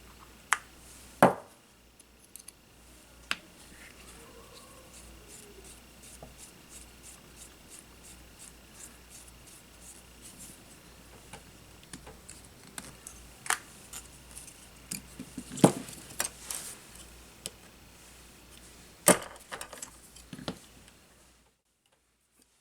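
Workbench handling sounds during a drone frame repair: scattered sharp clicks and taps of small tools and parts, with many faint ticks between them over a steady faint hum. The sound cuts off to near silence shortly before the end.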